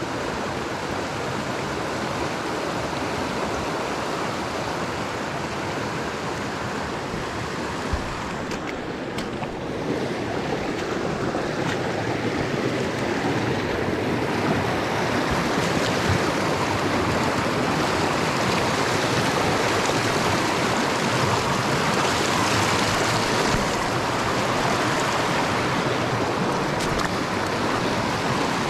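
Mountain stream flowing: a steady rush of water that grows somewhat louder about halfway through, with a couple of faint knocks about eight seconds in.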